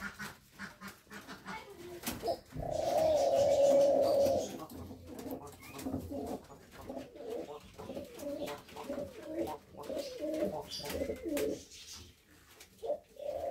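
Pigeons and doves cooing in a coop: one long held coo a few seconds in, then a run of short rolling coos, with scattered clicks.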